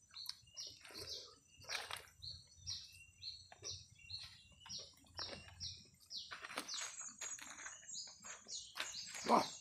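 A small bird chirping over and over in short, high notes, over close, wet chewing and smacking sounds of someone eating. Near the end a man says "wah".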